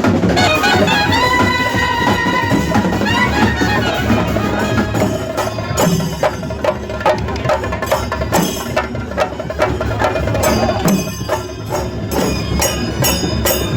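Festival band music: a brass melody with drums, the held brass notes giving way about five seconds in to dense, rapid drumming.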